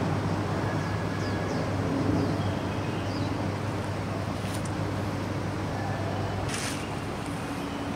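Steady outdoor city ambience: a low hum of distant traffic, with a few faint high chirps in the first half and a brief rustling burst about two-thirds of the way through.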